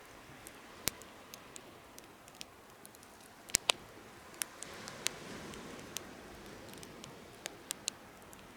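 Firewood crackling in a homemade fire stand: irregular sharp pops, two of them loud and close together about three and a half seconds in, over a soft steady hiss of the burning fire.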